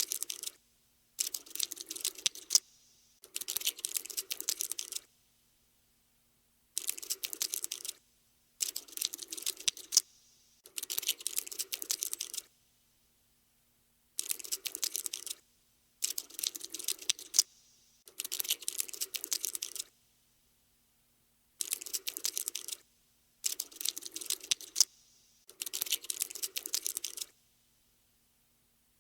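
Cockroach scuttling sound effect: bursts of rapid, tiny clicking and scratching, each a second or two long, with short silent gaps between them.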